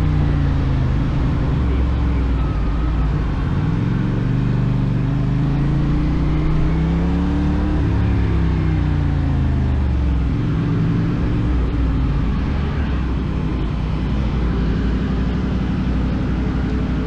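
CFMoto 450SR's parallel-twin engine running under way, its revs rising and falling several times through the gears, over steady road and wind noise.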